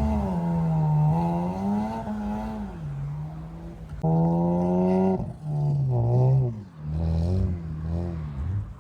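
A vehicle engine revving, its pitch falling and rising several times, with a sudden louder surge about four seconds in.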